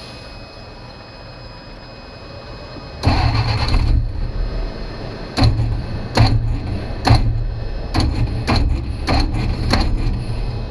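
Kaiser Jeep M715's Tornado 230 overhead-cam inline-six cranking and firing unevenly, with irregular sharp pops, starting about three seconds in. The engine sputters rather than running cleanly: a sign of weak spark from a bad ignition condenser.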